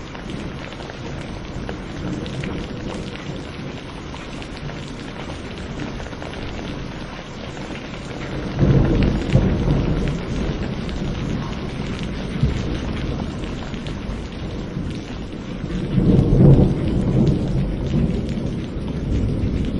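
Steady rain with two low rolls of thunder, one starting about nine seconds in and another about sixteen seconds in.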